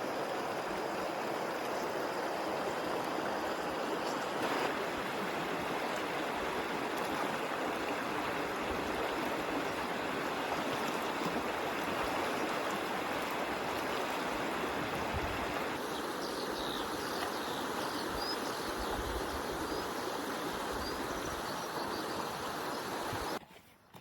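A small mountain stream flowing steadily over its bed, an even rush of running water that cuts off suddenly near the end.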